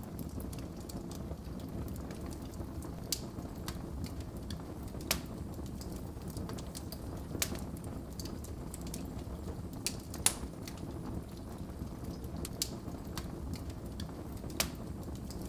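Wood fire burning in a fireplace: a steady low rumble of flames with irregular sharp crackles and pops, the loudest pop about ten seconds in.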